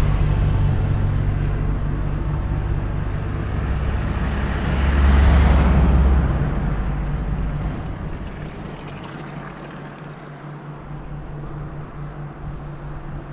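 A motor vehicle passing close on the road: engine and tyre noise swell to a peak about five seconds in, then fade away, leaving a quieter steady hum.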